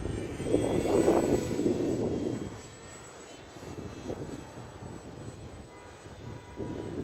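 Small electric RC airplane's motor and propeller buzzing in flight, swelling louder about a second in and then fading.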